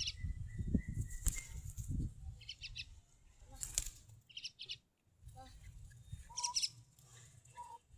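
A tame pet bird flutters its wings in short spells. Between the flutters it gives several brief bursts of high chirps.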